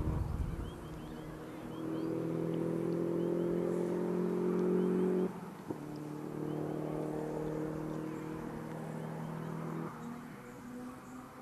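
Distant classic rally car engine echoing off the rock faces of a gorge, held at steady revs. It grows louder about two seconds in, drops off abruptly a little after five seconds, then runs on steadily and fades near the end.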